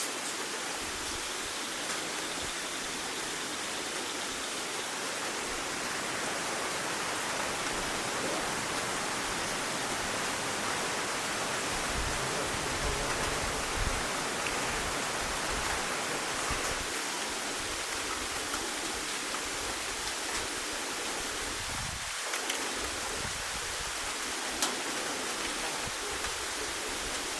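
Steady heavy rain falling on a rainforest clearing, an even hiss with no let-up.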